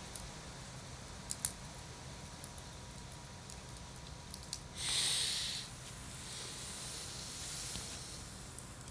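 Wood campfire burning, with scattered sharp crackles and pops. About five seconds in, a loud hiss bursts out for under a second and then carries on more softly for a couple of seconds: gas and moisture jetting out of a burning log.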